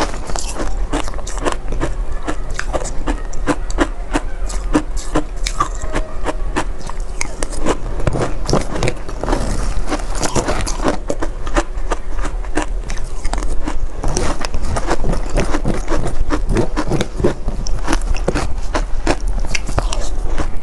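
Close-miked biting and chewing of shaved ice: dense, irregular crunches that run on without a break.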